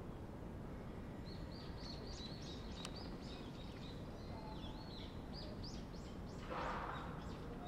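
Small birds chirping in a quick run of short, high twitters over a steady low outdoor rumble, with a brief breathy hiss near the end.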